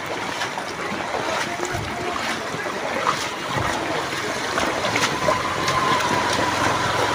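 Steady rushing water in a flooded street, with a thin steady high tone joining in the last couple of seconds.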